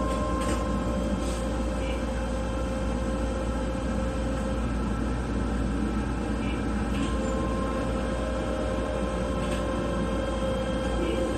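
Keihan 10000 series electric commuter train running along a station platform, heard from inside the car: a steady rumble with a thin, steady whining tone that drops out for a couple of seconds midway, and a few short high squeaks.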